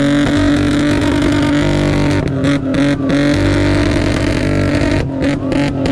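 Car engine revved and held at high revs, a loud steady note that shifts pitch slightly a few times.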